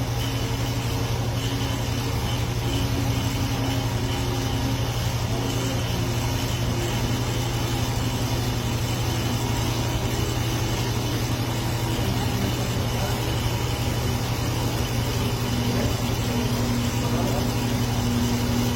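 A motor or engine running steadily at idle: an even, unbroken low hum.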